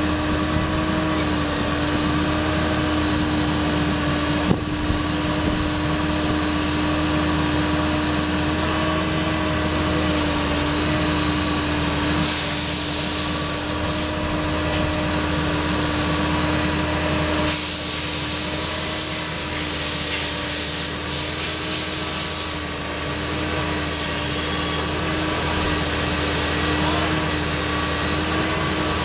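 Ford 7.3-litre Power Stroke V8 diesel running steadily with a constant whine over its low hum. Twice a loud hiss breaks in: briefly about twelve seconds in, and again for about five seconds a little later.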